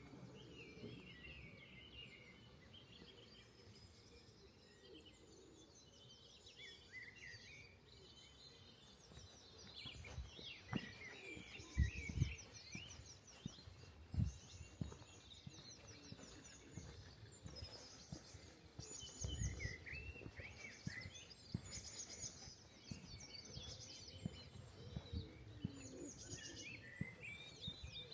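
Small birds chirping and twittering, many quick high calls scattered throughout, with a few dull low thumps about halfway through.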